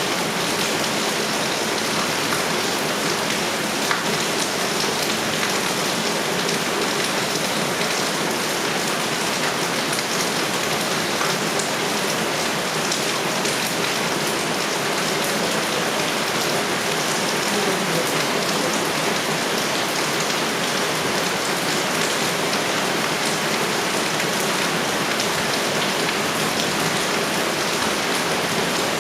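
Heavy rain falling steadily, a dense even hiss of drops hitting surfaces, with no thunder.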